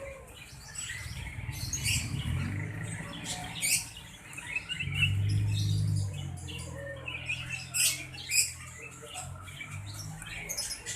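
Small bird, the one Indonesian keepers call sirtu, calling in quick, excited bursts of short high chirps and twitters. A steady low hum runs underneath, loudest about five to six seconds in.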